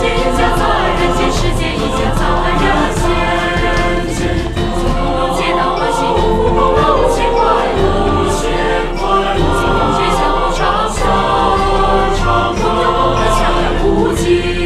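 Choral singing over instrumental backing music, with a steady percussive beat.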